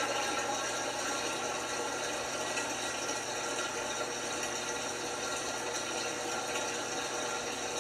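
LG washing machine with water rushing steadily through it, over a low steady hum.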